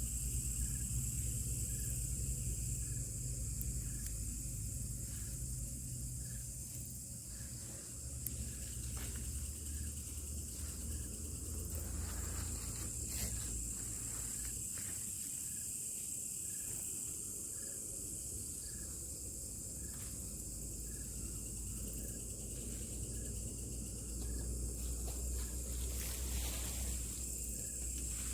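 Forest insects: a steady high-pitched buzz of cicadas or crickets, with a short chirp repeating about once a second, over a low steady rumble.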